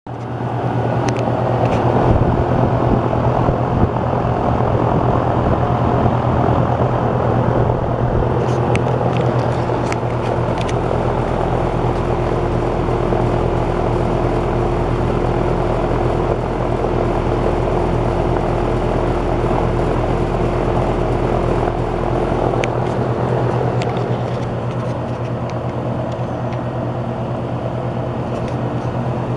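Lennox HVAC unit running: a steady rush of fan air over a low, even hum, with a few faint clicks. The sound eases off slightly near the end.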